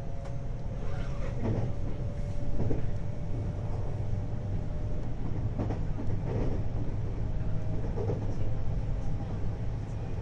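Hapi-Line Fukui 521-series electric train running between stations, heard from inside the car: a steady low rumble of wheels on rail with a few knocks from the track, and a faint steady whine that fades out a few seconds in.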